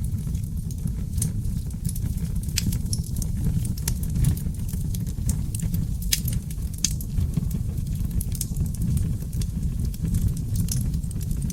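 Wood fire burning in a fireplace: a steady low rumble of flames with frequent sharp crackles and pops from the logs, a few of them louder.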